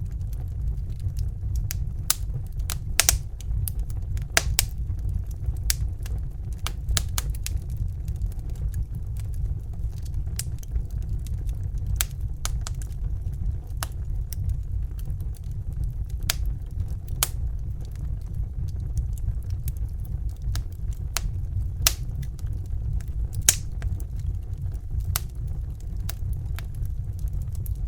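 Crackling fire: irregular sharp snaps and pops, several a second and varying in loudness, over a steady low rumble.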